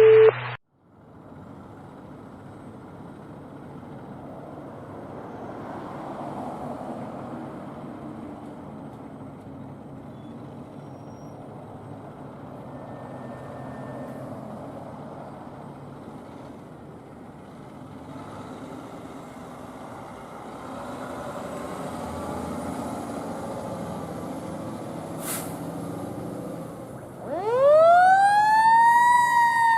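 A fire engine's motor runs steadily with a low rumble. Near the end its siren starts up: a fast rising wail that tops out and begins to fall slowly. A brief loud steady tone cuts off just after the start.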